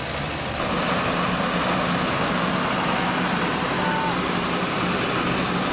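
Engine of a mobile flood control pump running steadily, a little louder from about half a second in.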